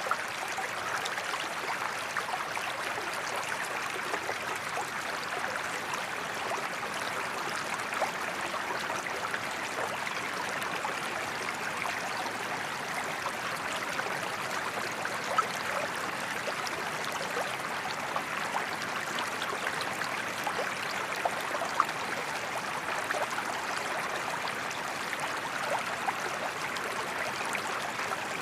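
Water flowing steadily over a small waterfall, an even wash of sound with fine splashes and trickles throughout.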